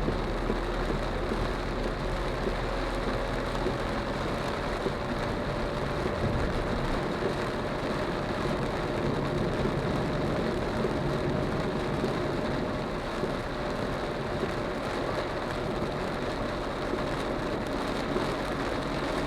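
Heavy rain hitting a small hatchback's roof and windscreen, heard from inside the cabin while driving, a steady noise with a faint engine hum beneath it.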